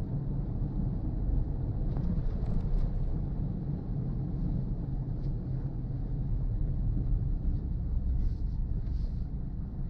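A car driving on a rain-wet road: a steady low rumble of engine and tyres with a light hiss, and a few faint brief ticks.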